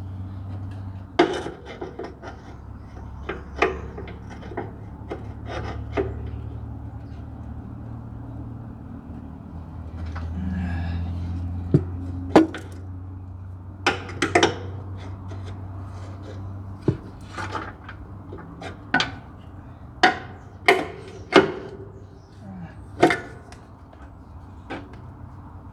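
Hand wrench work on stuck exhaust bolts of a skid steer's diesel engine: irregular sharp metal clicks and knocks of the tool on the bolts and engine, coming more often in the second half. A steady low hum runs underneath.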